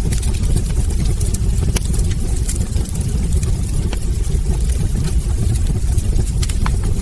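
Wood fire in a fireplace crackling, with sharp little pops of burning logs coming several times a second over a steady low rumble.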